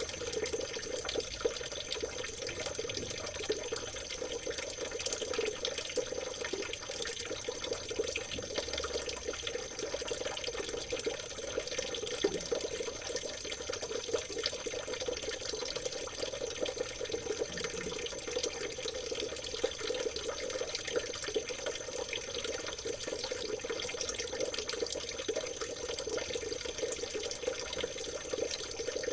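River water trickling and babbling steadily over stones, with a thin steady high-pitched tone underneath.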